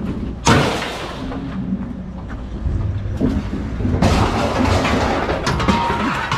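Scrap being unloaded and handled: a sharp clank about half a second in and another about four seconds in, with rattling and scraping between them and a low rumble underneath.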